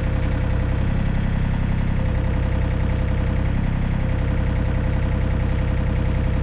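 John Deere 35D compact excavator's diesel engine running steadily at idle.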